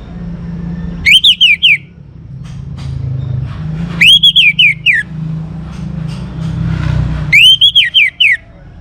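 Young orange-headed thrush singing the same short phrase three times, about three seconds apart. Each phrase is a loud whistled note that rises and falls, followed by a few quick descending notes. A steady low hum runs underneath.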